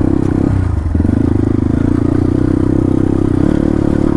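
Dirt bike engine running under way at fairly steady revs, easing off briefly about half a second in and then picking back up.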